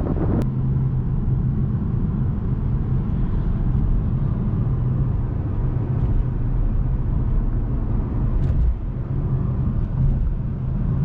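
Steady low car engine rumble with a continuous hum, and a single sharp click about half a second in.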